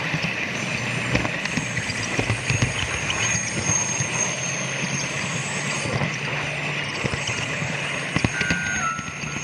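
Model train running on a home layout track: a steady running noise and low hum with irregular clicks of the wheels over rail joints. Near the end a brief two-step falling tone sounds.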